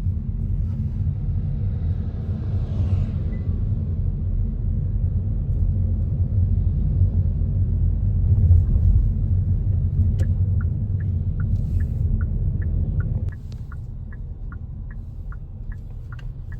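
Steady low road rumble inside a moving car. About ten seconds in, a turn-signal indicator starts ticking evenly, a little over twice a second, and the rumble drops soon after as the car slows.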